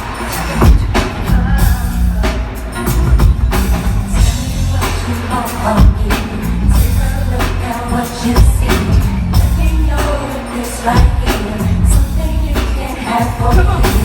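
Loud live R&B concert music through a PA: a heavy bass line and drum kit beat, with singing over it.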